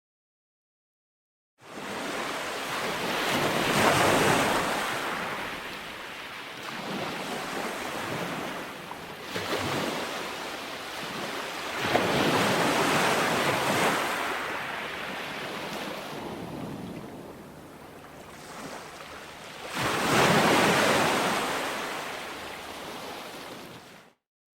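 Ocean waves breaking and washing up a shore, swelling three times about eight seconds apart. The sound begins abruptly after a second and a half of dead silence and cuts off suddenly just before the end.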